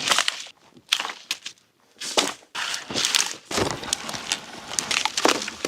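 Crunching and snapping of dry twigs and small branches in irregular bursts, with a short pause in the middle.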